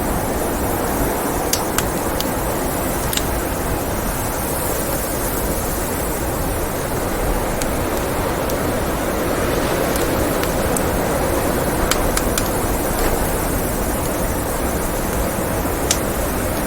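Steady rushing blizzard wind with a crackling wood fire: a few sharp pops and snaps scattered over the constant wind noise, a cluster of them around the middle to late part.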